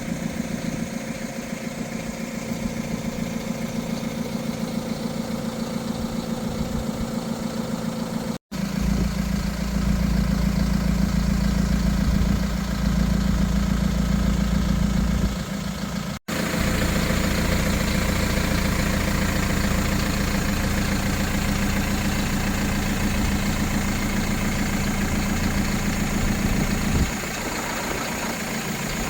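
DAF LF 180 truck's 4.5-litre diesel engine idling steadily. It breaks off briefly about 8 and 16 seconds in and comes back louder and deeper each time.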